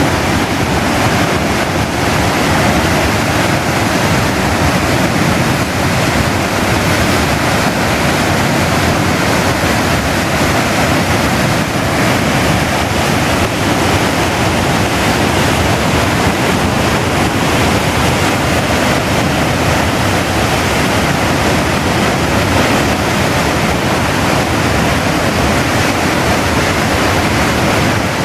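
River in flood pouring over a weir: a loud, steady roar of rushing water.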